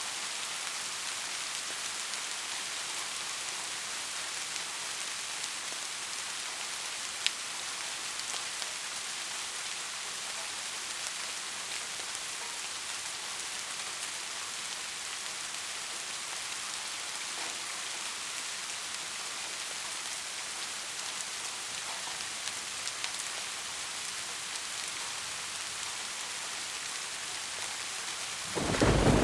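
Steady rain falling, an even hiss with scattered sharp drop ticks. Just before the end a loud, low thunder rumble breaks in.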